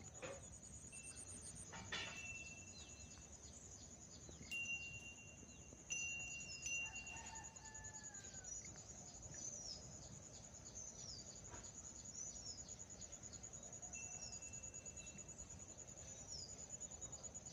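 Countryside dawn ambience: a steady high chirring of insects with birds calling, repeated short downward chirps and a few clear held whistled notes.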